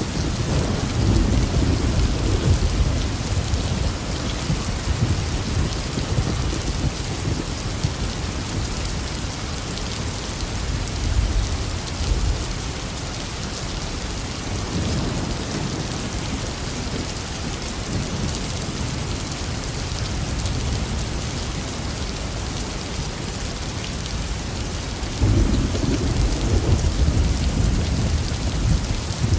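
Heavy rain falling steadily, with rolling thunder rumbling several times; the loudest rumble starts suddenly about 25 seconds in.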